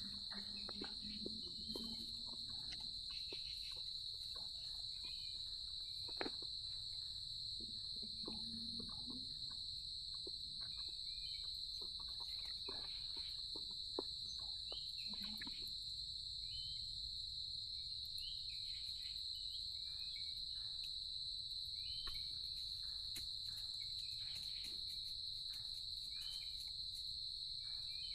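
Night insects, crickets or similar, keeping up a steady, unbroken high-pitched trill, with faint scattered clicks over it.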